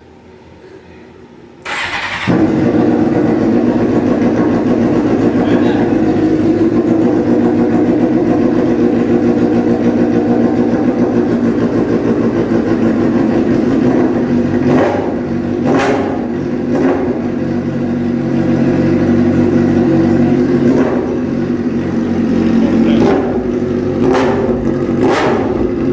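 Suzuki GSX-R 750 K3's inline-four engine, run with no exhaust fitted, starting up about two seconds in and settling into a steady, loud idle. In the second half it is blipped with short throttle revs, several in a row near the end.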